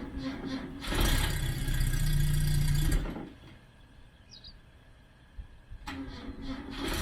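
1964 Renault Gordini R1095's four-cylinder engine on its first start after winter storage, running unevenly, then revved hard for about two seconds. It drops almost to quiet for a few seconds before it runs again and picks up near the end.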